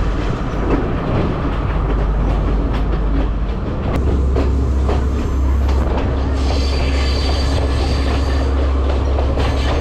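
Passenger train running on the track, a steady low rumble with the clatter of wheels over the rail joints. From about six and a half seconds in a faint high wheel squeal sounds over it.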